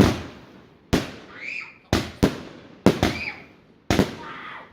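Fireworks going off: a run of sharp bangs, about one or two a second, some in quick pairs, each trailing off.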